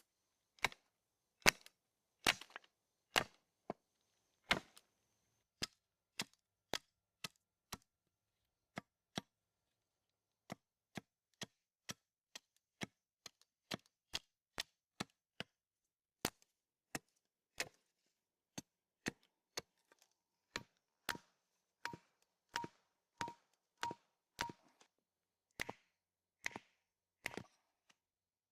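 Wooden stakes being pounded into the ground, a steady run of sharp knocks about one to two a second.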